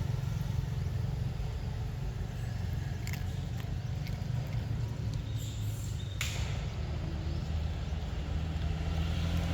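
A steady low engine-like rumble runs throughout. A few sharp clicks stand out, the loudest about six seconds in.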